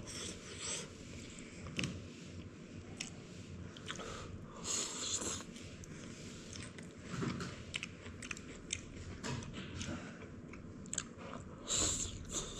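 A man chewing and biting close to the microphone, eating stir-fried green pepper with shredded pork: wet chewing with crunching and scattered short clicks, and a few louder noisy bursts about five seconds in and near the end.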